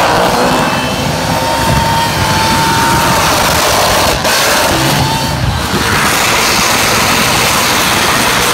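Supercharged, methanol-fuelled Chev V8 in a Holden VF ute, held at high revs through a burnout with the rear tyres spinning. Loud and continuous, with no let-up.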